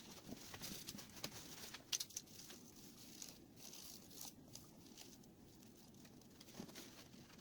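Faint rustling and scraping with scattered light clicks, from hands working on an old manual typewriter.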